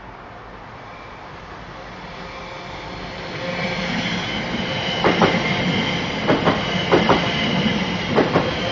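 Class 390 Pendolino electric train approaching, growing louder, with a steady high whine. From about five seconds in, its wheels click over rail joints in quick pairs, roughly one pair a second.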